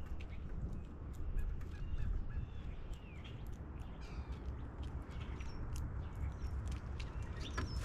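Wild birds calling, with short chirps and brief pitch glides and harsh crow-like calls, over scattered small clicks and a steady low rumble.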